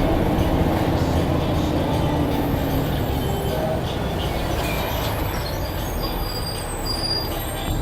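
Blue Bird All American bus running on the road: a steady low rumble with short, high squeaks over it.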